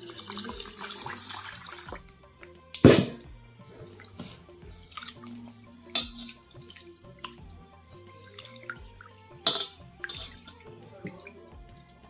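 Rice being washed by hand in a bowl: tap water runs in for the first two seconds, then water splashes and sloshes with scattered sharp knocks against the vessel.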